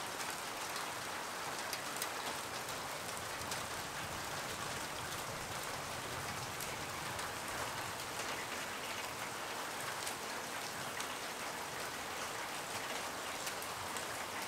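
Heavy thunderstorm rain falling steadily on roofs, with scattered sharp drop taps.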